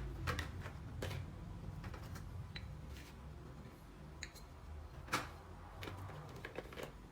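Scattered light clicks and taps over a low steady hum, with a sharper knock about five seconds in.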